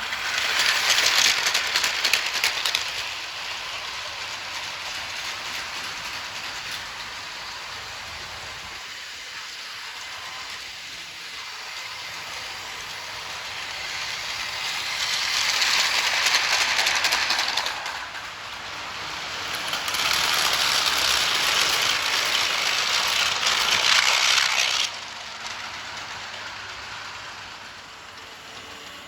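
Märklin My World battery-powered toy train running on its plastic track with a rattle, broken by three louder stretches of hiss, the last one cutting off suddenly.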